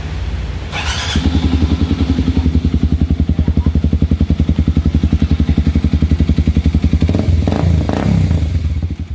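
Kawasaki D-Tracker 250's single-cylinder four-stroke engine idling with a rapid, even thumping from its exhaust, played as a sound check of the exhaust fitted before a swap to a MIVV. It gets louder about a second in, blips up a couple of times near the end, then drops away suddenly.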